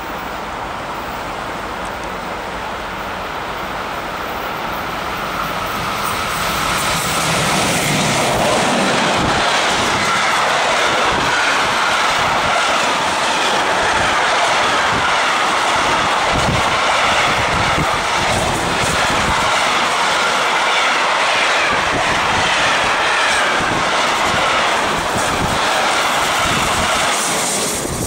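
Electric-hauled intermodal container freight train approaching and passing close by. It grows louder over the first several seconds, then holds as a loud, steady rush of wheels and wagons with a clatter of wheels on the rails, and heavy wind from the train buffeting the microphone. It falls away just before the end as the last wagons go by.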